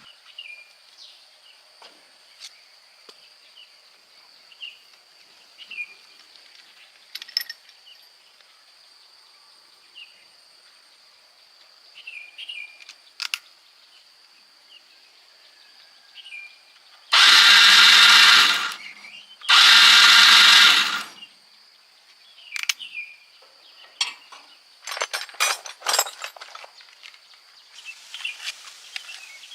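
A handheld power tool runs in two short bursts of about a second and a half each, a little over a second apart, with a few clicks afterwards. A steady high insect drone and occasional bird chirps sit underneath.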